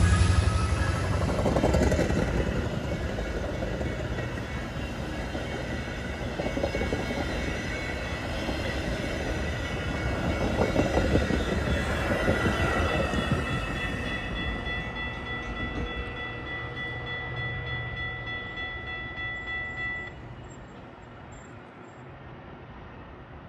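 Metra commuter train rolling past and away, its rumble fading steadily, with steady high tones from the train that stop abruptly near the end.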